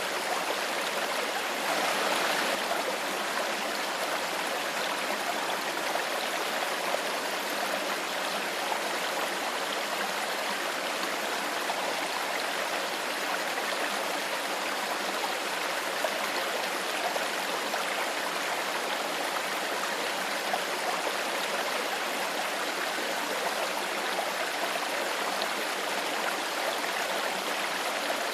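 Stream water flowing steadily, with a slight swell in the rush about two seconds in.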